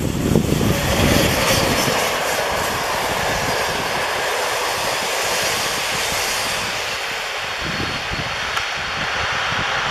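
Passenger train passing at speed: a steady rush of wheels and carriages on the rails. Wind buffets the microphone during the first two seconds.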